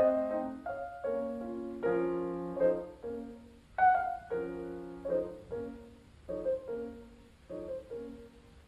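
Solo piano music: struck chords and single notes that ring and fade. The phrases grow slower and quieter toward the end.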